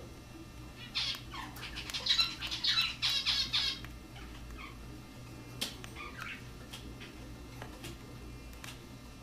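Cockatiel giving a run of harsh, warbling squawks for about three seconds, followed by a few scattered sharp clicks.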